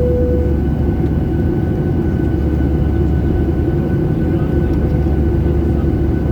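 Steady low engine rumble heard inside the passenger cabin of a jet airliner, with a faint steady whine above it. A short steady tone stops about half a second in.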